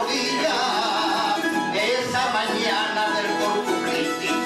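Bandurria, laúd and guitar trio playing a Cádiz carnival tango, plucked strings sounding steadily.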